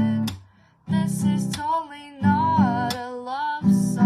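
Acoustic guitar strumming chords, with a sung voice holding long, wavering notes over it.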